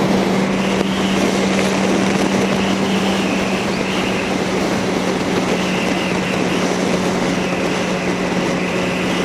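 Yamaha R1 sport bike's inline-four engine running at steady, low revs while cruising, under a steady rush of wind and road noise.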